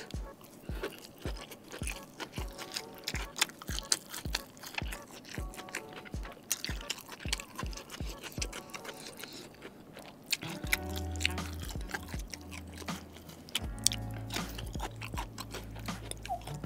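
Close-up crunchy chewing and biting of crispy fried chicken karaage, with sharp crackling bites, over background music. The music has a steady beat that gives way to held bass notes about ten seconds in.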